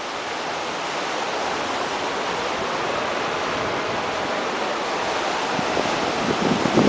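A steady rushing noise, even and unbroken, of the kind made by fast-moving water or wind.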